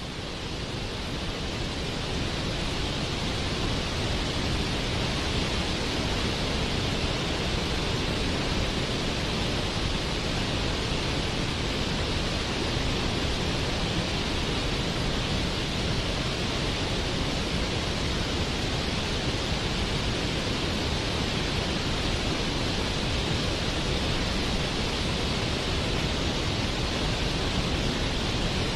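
Waterfall: a steady rush of falling water that fades in over the first few seconds, then holds even.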